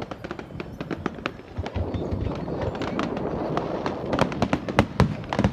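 Rapid, irregular sharp cracks and pops over a low rumble, coming thicker and louder toward the end.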